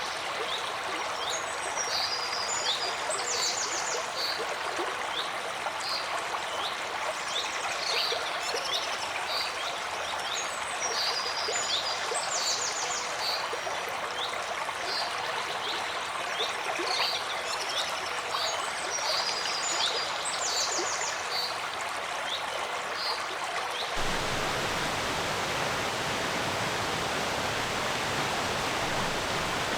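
Forest stream babbling, with a songbird repeating a short song that ends in a rapid high trill every four to five seconds. About 24 seconds in, the sound cuts abruptly to a steadier, deeper, even rush without birdsong.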